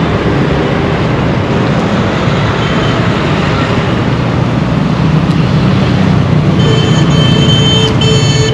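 Dense Indian road traffic: vehicle engines running and tyre noise in a steady wash. A vehicle horn honks near the end.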